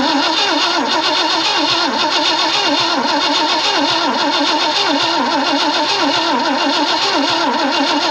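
The starter cranks the 1965 Ford Thunderbird's 390 V8 steadily and rhythmically, but the engine never catches. The owner takes the weak spark for the cause and suspects the points, condenser and coil.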